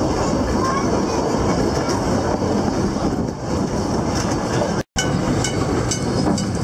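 Puffing Billy narrow-gauge steam train under way: the steady rumble and rattle of the carriage running on the rails. The sound drops out briefly just before five seconds in, and sharp clicks follow.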